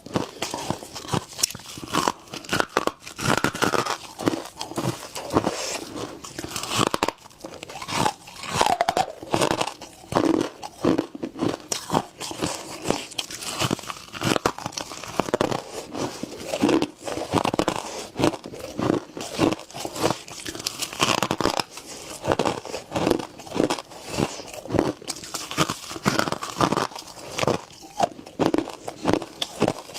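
Humidifier frost being bitten and chewed close to the microphone: a continuous run of crisp, crackly crunches, several a second.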